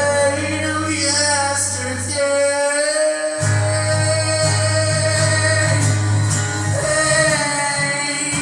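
Singing with guitar accompaniment, the voice holding long, drawn-out notes.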